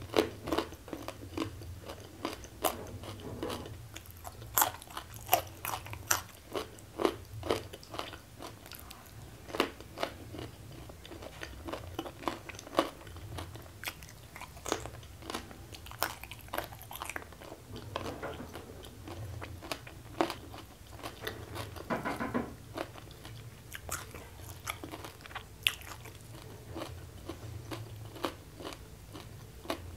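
Close-miked chewing of crunchy food, with many sharp, irregular crunches and wet mouth sounds.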